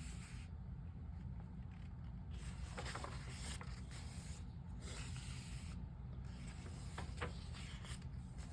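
Pages of a paperback colouring book being turned by hand: soft paper rustling and rubbing, with a few light clicks, over a steady low hum.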